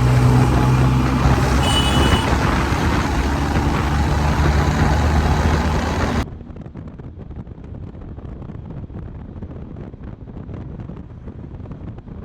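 Riding noise on a motorcycle at road speed: a steady engine hum under heavy wind and road noise. There is a brief high horn beep about two seconds in. About six seconds in, the sound drops abruptly to a quieter, muffled wind-and-road rumble.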